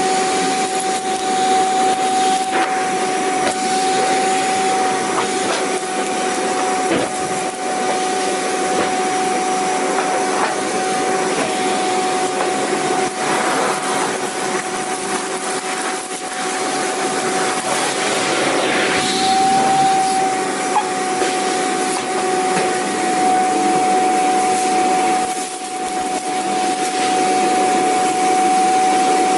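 Vacuum cleaner running steadily: a constant motor whine over a dense rushing hiss of air, with slight wavers in level and a few faint knocks.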